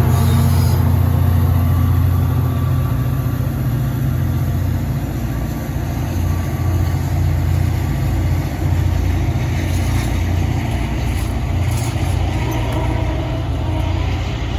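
Diesel locomotive engine running with a loud, steady low rumble that eases slightly a few seconds in.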